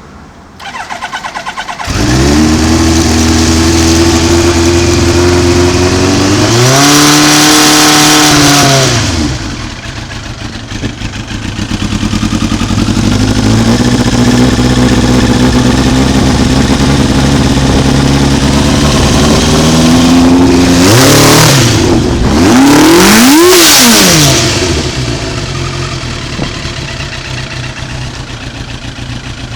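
Kawasaki GPZ900R Ninja's inline-four cold-started: the starter cranks briefly and the engine catches about two seconds in, then runs at a fast idle. It revs up once for a couple of seconds, later takes two quick throttle blips, and settles back to idle near the end.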